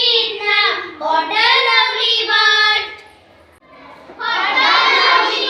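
Children's high voices singing a short song in two phrases, with a pause of about a second in the middle.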